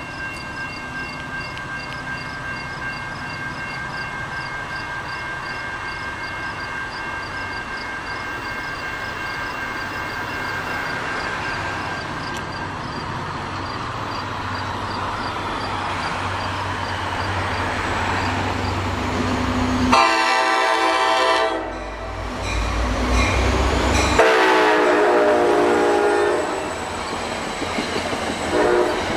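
NJ Transit GP40PH-2B diesel locomotive approaching, its engine rumble growing louder, then sounding its horn: a short blast about twenty seconds in and a longer one about four seconds later. Another blast begins as the train passes with wheels clattering on the rails near the end.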